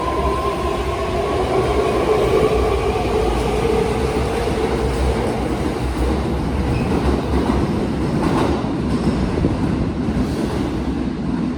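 Kintetsu electric train running through the station, its traction motors giving a whine that rises slightly in pitch over the first few seconds over a steady rumble of wheels on rail, with some clickety-clack over the rail joints.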